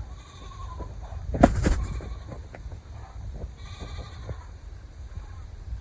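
Baby goats bleating, a few faint calls, with a short louder burst of noise about a second and a half in.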